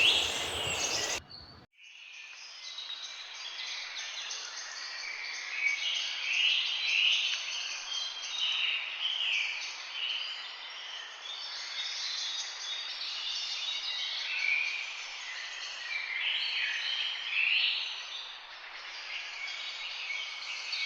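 A flock of birds calling together: many short, overlapping chirps and warbled notes, dense and continuous. The calls start after a brief drop in sound about a second and a half in.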